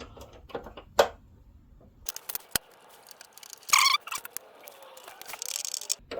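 Small clicks and taps of plastic parts and screws being handled as screws are started by hand into a car headlight housing, with a sharp click about a second in and a brief louder scrape a little under four seconds in.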